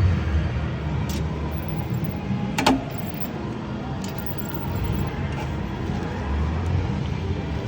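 Casino floor din: a steady mix of slot machine sounds and room noise with a low rumble, and one sharp click about two and a half seconds in.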